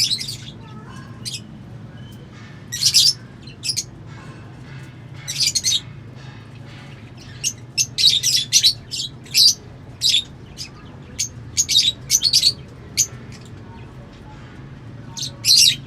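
Lovebirds chirping in short, shrill bursts that come in clusters, busiest through the middle, over a steady low hum.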